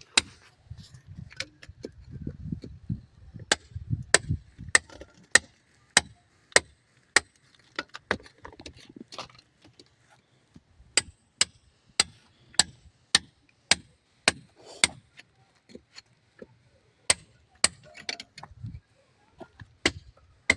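Steady hammering: sharp blows landing a little under twice a second, with a short pause near the middle.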